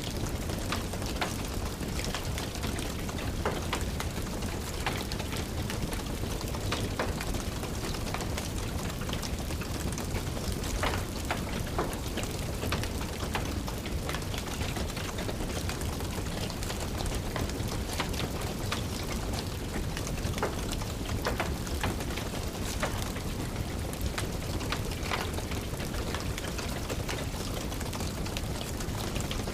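Steady rain mixed with the irregular sharp crackle and pops of a fire burning in a fireplace.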